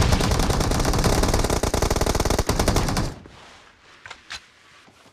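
Video-game automatic gunfire: one sustained burst of rapid shots lasting about three seconds that stops abruptly, followed by a couple of faint clicks.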